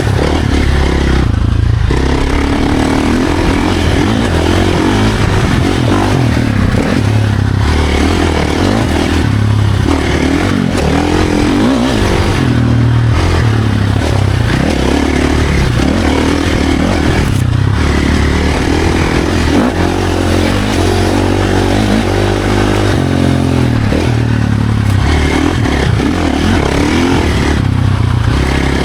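Dirt bike engine ridden hard on a trail, revving up and falling back over and over as the rider works through the throttle and gears, with clattering and rattling over the ground.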